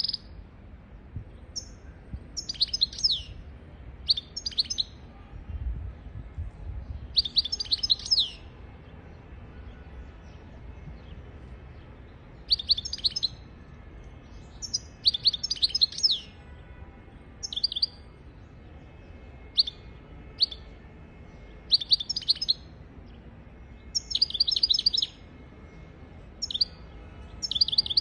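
European goldfinch singing: short bursts of rapid, high twittering chirps, each about half a second to a second long, repeating every two to three seconds.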